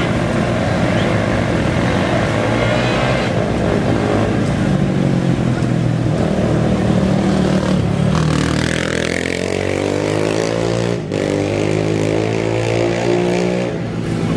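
Off-road race engines running at the start line, with a rising engine note from about eight seconds in as a vehicle accelerates away.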